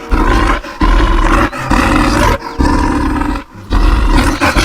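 Bear roaring, a sound effect: about five loud, rough roars in a row, each under a second long with brief gaps between them.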